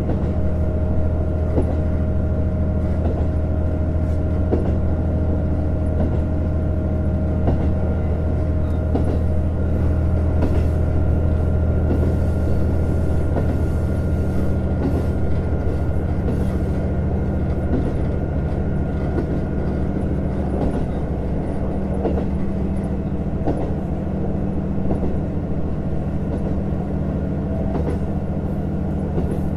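JR Hokkaido KiHa 150 diesel railcar heard from inside the cabin while running: the underfloor diesel engine and transmission drone steadily, with wheel clicks and rail noise from the bogies.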